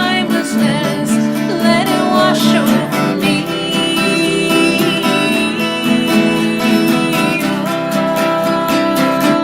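Live acoustic song: strummed acoustic guitar with a melody line over it.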